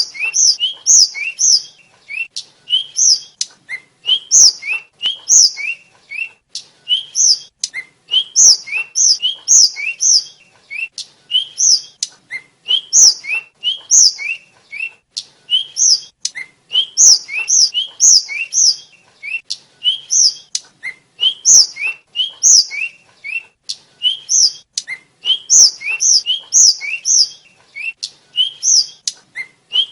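Tledekan (sulingan) flycatcher, the little pied flycatcher, singing continuously in short, thin, high whistled phrases repeated about once a second. Each phrase is a short rising note followed by one to three sharper, higher notes.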